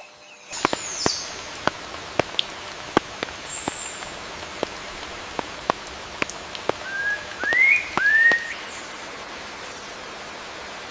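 Scattered water drops plopping one at a time over a steady background hiss, with bird calls: a falling whistle about a second in and three short chirps that rise and fall, the loudest sounds, about two-thirds of the way through.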